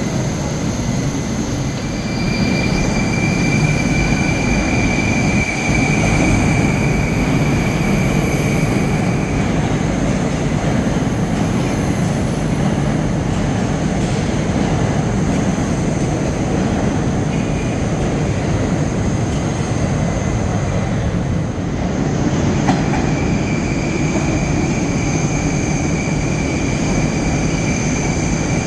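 Moscow metro train running on the Serpukhovsko-Timiryazevskaya line: a steady rumble of wheels on track. A thin high whine comes in for several seconds near the start and again near the end.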